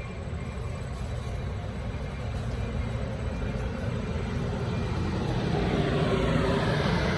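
Low, steady vehicle rumble that grows louder in the last couple of seconds as a hiss spreads into the higher range.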